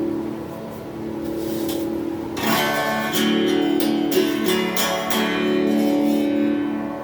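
Donner Q1 HSS Strat-style electric guitar played through a small amp: chords strummed and left to ring. A fresh set of strums comes about two and a half seconds in.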